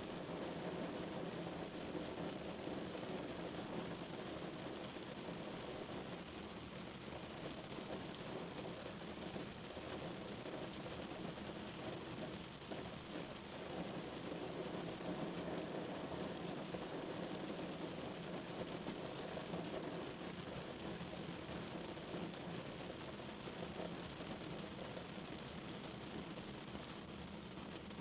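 Steady rain falling on a car, a continuous patter with a low drumming rumble and fine drop ticks.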